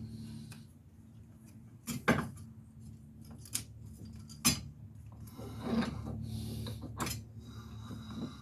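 Metal parts and hand tools clinking and knocking during wheel-bearing work: a few sharp metallic knocks, the loudest about two seconds in, with a steady low hum underneath.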